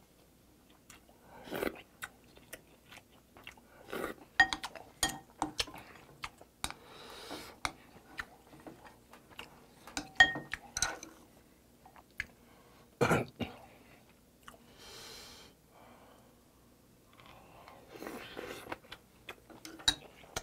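Close-miked chewing of mustard-leaf kimchi stew and rice, wet mouth sounds at irregular intervals. Now and then a spoon clinks against the ceramic bowl with a short ring.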